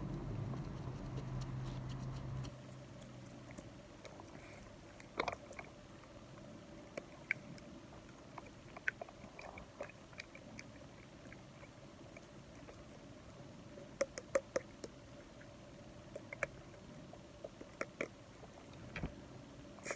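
Close-miked ASMR trigger sounds: scattered small clicks and taps, some in quick clusters. A low hum and noise stop about two and a half seconds in.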